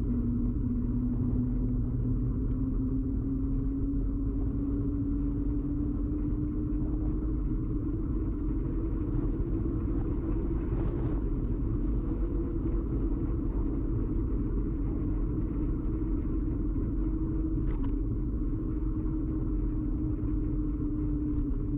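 Ride noise from a bicycle, carried through the camera's rigid mount: a steady low rumble with a humming tone that slowly rises and then falls back, with a couple of faint clicks.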